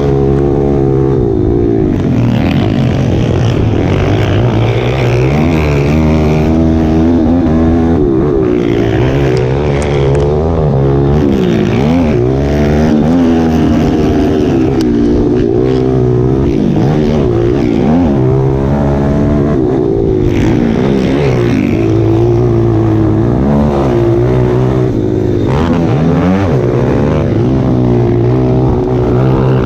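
Dirt bike engine being ridden hard, revving up through the gears and dropping back again and again as the rider shifts and rolls off the throttle.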